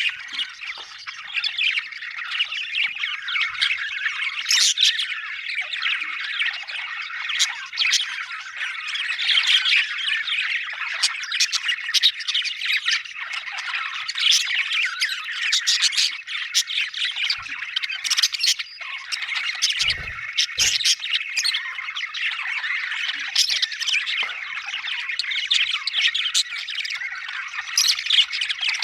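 A flock of budgerigars chattering and chirping without pause, many calls overlapping, with sharper squawks standing out above the chatter.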